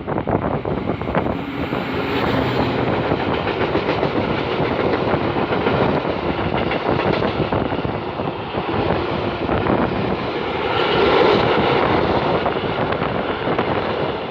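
A train passing close by, its wheels clattering rapidly over the rail joints in a dense, continuous rumble that swells a little around eleven seconds in.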